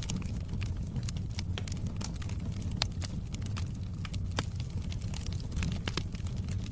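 Wood fire burning in a fireplace: a steady low rumble with frequent irregular sharp crackles and pops of the burning wood.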